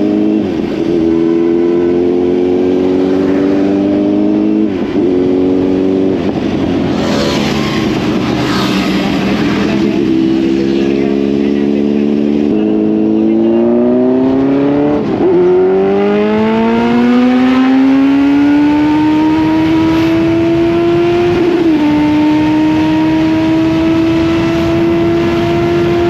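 Kawasaki Z900's inline-four engine pulling hard under way, its pitch climbing and dropping back with each upshift, about four shifts, then holding a high, slowly rising note at speed, with rushing wind noise.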